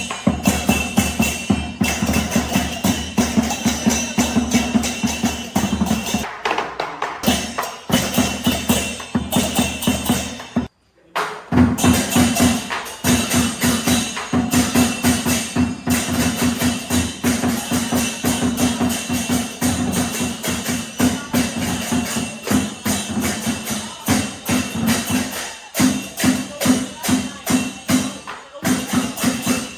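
Lion dance percussion: a drum beaten in fast, even strokes with cymbals clashing along, which breaks off briefly about eleven seconds in and then picks up again.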